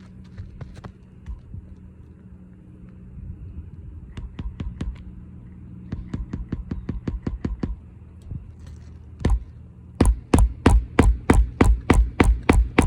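Hammer driving roofing nails into a replacement asphalt shingle: runs of light taps, then from about ten seconds in loud, even blows about three a second. A steady low hum runs underneath.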